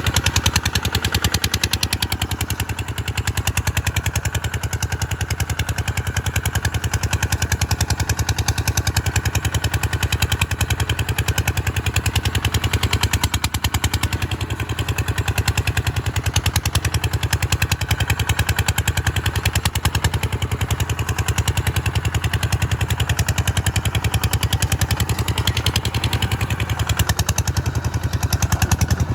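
An engine running steadily at a constant speed, with a rapid, even beat of firing pulses.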